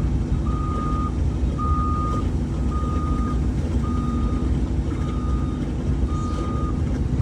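A heavy machine's backup alarm beeping about once a second, a single steady tone repeated seven times, over the steady low rumble of a running engine.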